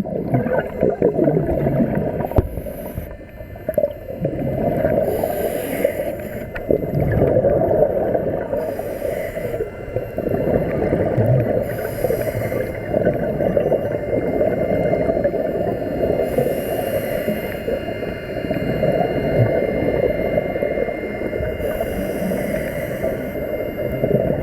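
Scuba diver breathing through a regulator underwater, with a burst of exhaled bubbles every few seconds over a steady muffled rush.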